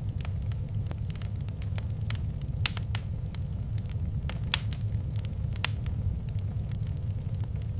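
Wood fire crackling in a fireplace: scattered sharp pops and snaps, the loudest three coming between about a third and three quarters of the way through, over a steady low rumble of the burning.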